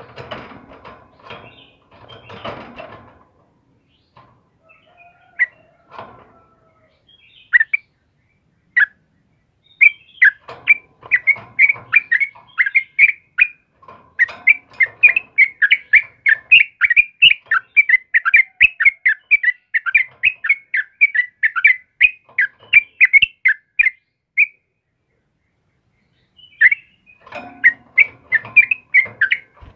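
Yellow-vented bulbul (trucukan) singing: a long run of rapid chirpy notes, several a second, starting about ten seconds in and stopping shortly before the end. Scattered single calls come before the run, and another burst of song comes near the end.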